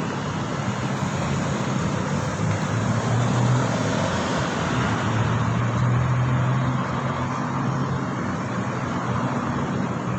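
Road and traffic noise during a ride: a steady rush with a low engine hum that swells twice in the middle.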